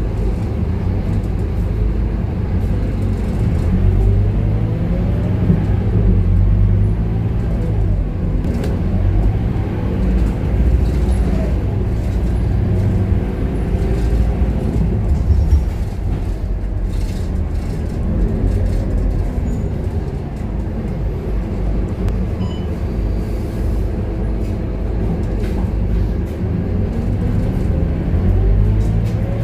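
Scania K230UB city bus heard from on board: a deep engine rumble whose pitch climbs several times as the bus pulls away and accelerates, with falls in between as it changes gear or slows.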